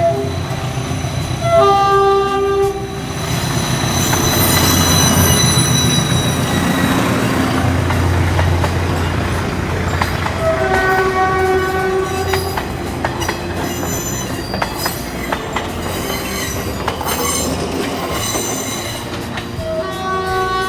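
Philippine National Railways train passing: its horn sounds about a second and a half in, again around ten seconds in, and once more near the end. Between the horn notes there is loud rumbling of the train running by, with high wheel squeal.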